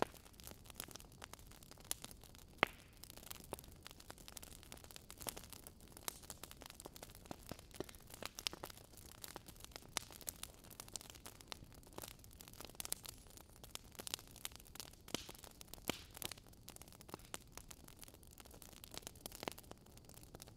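Wood fire in a fireplace crackling: irregular sharp pops and snaps, several a second at times, over a faint steady hiss.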